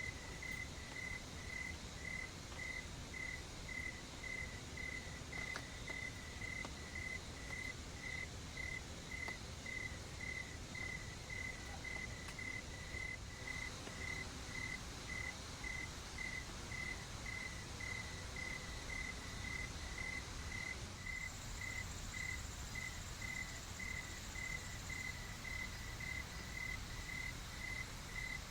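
A cricket chirping in an even rhythm, about two high chirps a second, over a steady background hiss. About two-thirds of the way through, a higher, thinner insect buzz joins for a few seconds.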